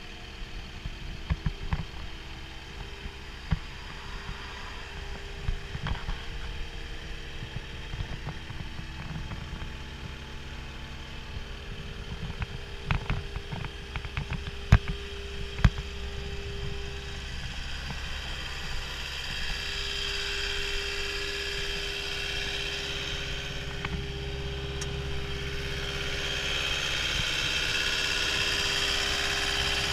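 Caterpillar 242D skid steer loader's diesel engine running at idle, with scattered sharp knocks and clatter in the first half. The sound grows steadily louder and brighter through the second half.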